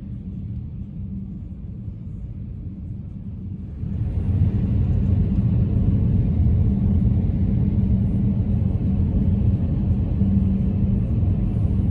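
Car road noise heard from inside the cabin: a steady low rumble of tyres and drivetrain with a hum. It grows clearly louder, with more hiss, about four seconds in.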